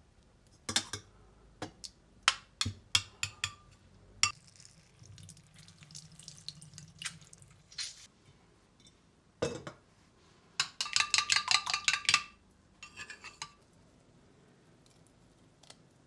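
Kitchen dishes and cutlery being handled: scattered clinks and knocks, then a run of quick ringing clinks in the second half.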